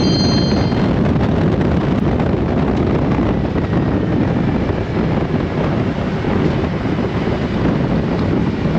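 Harley-Davidson Road Glide motorcycle running at highway speed under heavy wind rush on the microphone, a steady rumble without a break. A brief high tone sounds right at the start.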